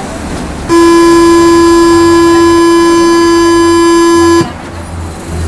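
Mexico City Metro train's door-closing warning buzzer sounding one steady, loud tone for nearly four seconds, starting under a second in and cutting off sharply, over a low background rumble.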